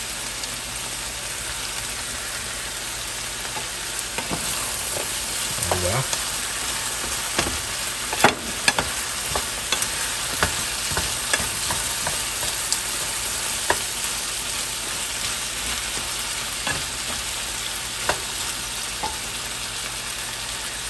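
Chicken and vegetables frying in a pan with a steady sizzle. From about four seconds in, a wooden spatula stirs them, making scattered clicks and knocks against the pan.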